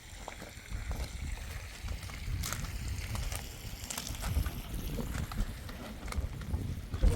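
Wind buffeting the microphone, a gusting low rumble with a few scattered faint clicks.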